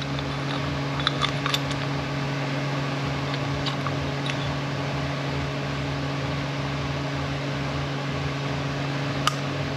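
Steady low mechanical hum, like a running fan or motor, with a few light clicks, the sharpest one near the end.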